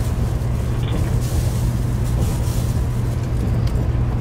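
Cabin running noise inside a 700 series Shinkansen car: a steady low hum under an even rushing hiss, the hiss brightening about a second in, as the train approaches its stop.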